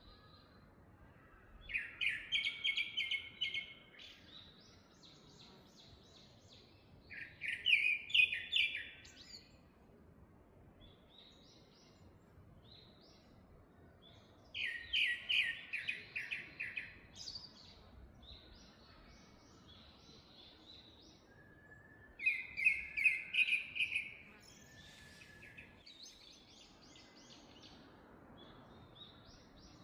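Forest birdsong: one bird repeats a song of rapid, trilled notes about every seven seconds, each phrase lasting about two seconds. Fainter, higher chirps from other birds fill the gaps.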